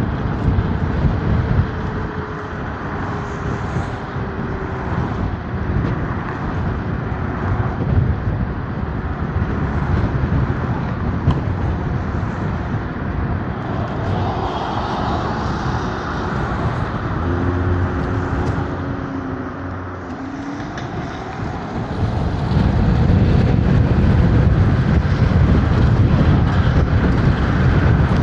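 Wind and road noise while riding an electric scooter through city traffic on wet, slushy streets, a steady rush that grows louder about 22 seconds in.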